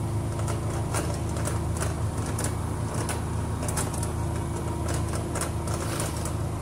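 Twin-tub washing machine running with its drain pump, a steady low hum with light irregular ticking. The pump runs without its earlier loud noise, now cleared of a hair clip that had been caught inside it.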